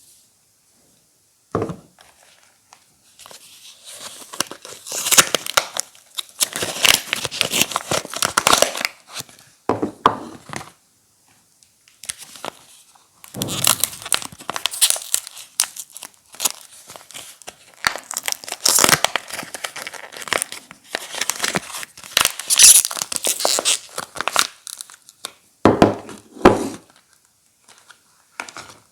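Soap bars being unwrapped: packaging crinkling and tearing in long irregular bursts, with short pauses between.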